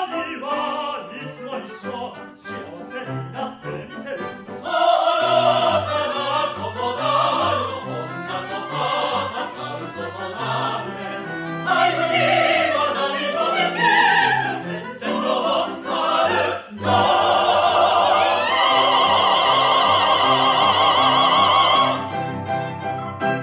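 Operetta singing with orchestra: sung phrases with vibrato over string accompaniment, ending on a long held note before the music cuts off.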